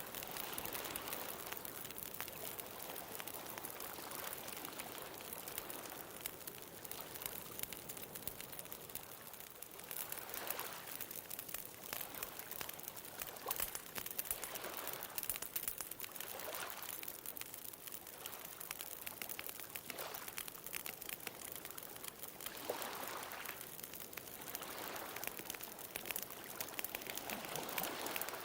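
Bonfire crackling with a constant stream of small sharp pops, over ocean waves washing on the shore in repeated swells every few seconds.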